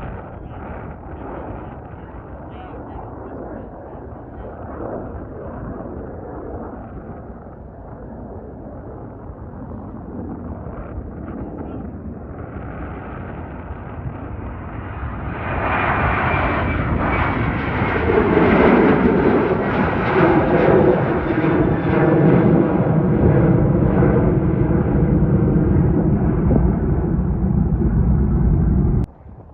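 Jet engines of a Boeing 737-900ER airliner building up as it approaches, then passing loudly with a rumble and a high fan whine that slowly falls in pitch. The sound cuts off suddenly near the end.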